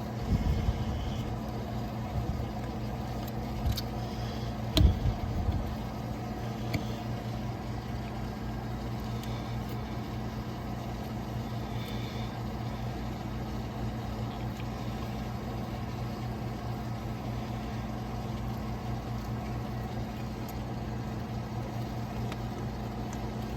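A steady low mechanical hum, with a few sharp knocks in the first seven seconds from hand work on the raw-water pump while the impeller is being fitted; the loudest knock comes about five seconds in.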